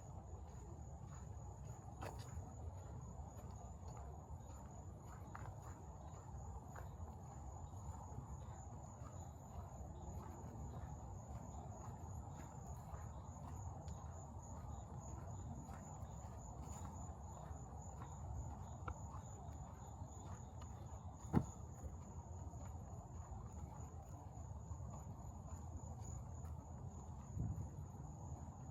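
Insects trilling in one steady, unbroken high-pitched drone, with a low background rumble and a single sharp click about three-quarters of the way through.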